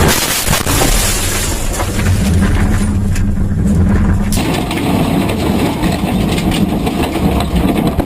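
Rally car engine running under steady road and tyre noise. The sound changes abruptly a little over four seconds in.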